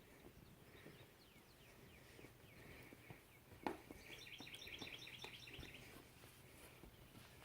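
Faint birdsong: a few short downward chirps, then a rapid trill of about nine notes a second lasting nearly two seconds. A single sharp knock sounds just before the trill.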